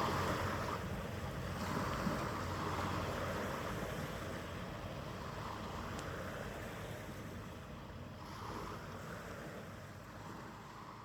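Harbour ambience: wind on the microphone and washing water, with a faint steady low hum, slowly fading away.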